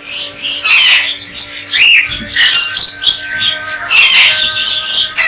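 A room full of caged parrots squawking and calling loudly over one another, short shrill calls overlapping without a break: their morning clamour while waiting for seed and water.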